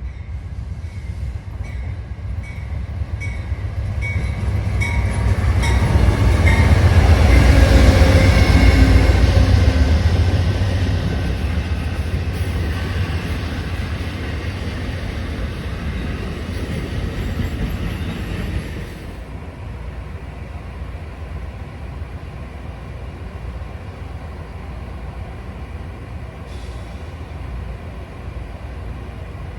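A train passing close by. Rhythmic wheel clicks and a rumble build to a peak about eight seconds in, fade slowly, then drop off sharply at about nineteen seconds, leaving a lower steady rumble.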